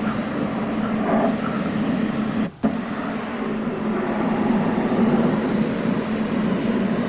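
A machine running steadily with a hum and a hiss. The sound drops out briefly about two and a half seconds in.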